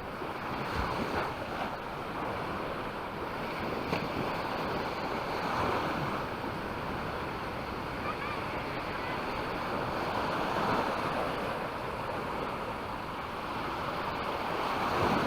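Sea waves washing onto a sandy beach, the surf swelling and easing every four to five seconds, with wind buffeting the microphone.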